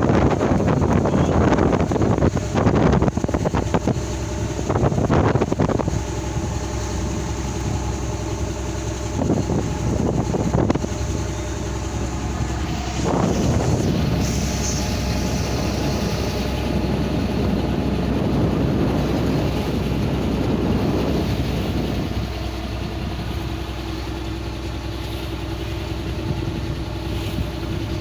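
Boat's motor running steadily at sea, with wind buffeting the microphone in gusts during the first half.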